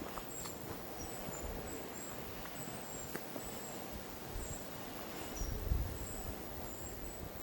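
Quiet countryside ambience with thin, high bird chirps repeating every half second or so. A low rumble swells briefly about five and a half seconds in.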